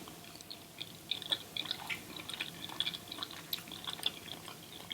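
Close-miked wet chewing of sauce-covered seafood: soft, irregular smacks and clicks of the mouth.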